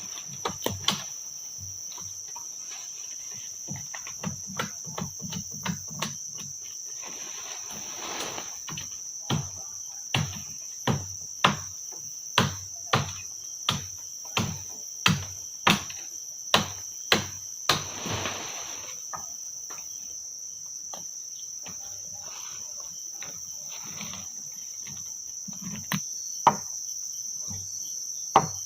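Steady high-pitched forest insect drone, with a run of sharp, hard knocks of a tool striking wood about two a second through the middle, softer knocks before it and a few more near the end.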